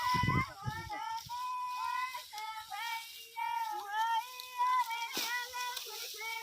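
Women singing a Marwari folk song unaccompanied in high voices, with long wavering held notes. There are a few low thumps in the first second.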